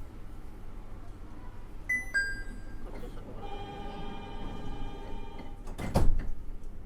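Door-closing sequence of a Nippori-Toneri Liner 330 series train standing at a station: a two-note falling chime, then a steady warning buzzer for about two seconds, then a loud thud as the doors shut about six seconds in.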